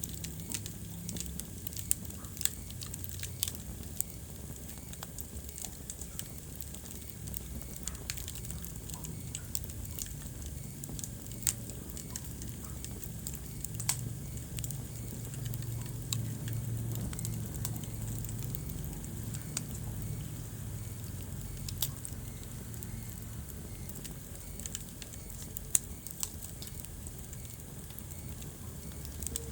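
Wood fire burning in a fireplace, crackling with irregular sharp pops over a low, steady rumble of flame; a few pops stand out louder.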